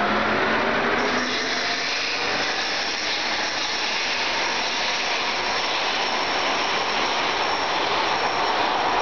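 Subway light-rail train pulling out of the station: the motor whine rises and levels off about a second in, giving way to a steady rolling rumble with a faint high whine.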